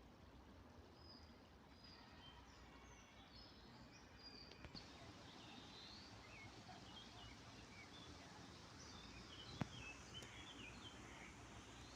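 Faint birdsong: several small birds chirping and twittering over a low steady outdoor background, busier in the second half. A single sharp click stands out about two-thirds of the way through.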